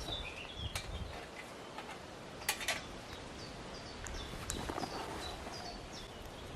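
Wild birds singing: short, high, downward-sliding chirps repeated every half second or so over a steady outdoor hush. A few sharp clicks cut through, the loudest a close pair about two and a half seconds in.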